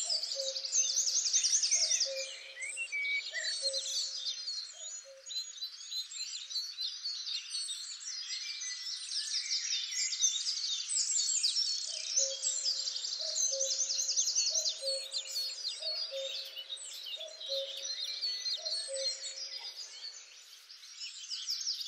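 Dense chorus of songbirds chirping and trilling. A low two-note call, the second note lower, repeats about once a second through the first five seconds and again from about twelve to twenty seconds in.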